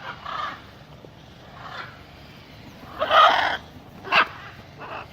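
Macaws squawking: several short calls, the loudest and longest about three seconds in, followed by a sharp short one.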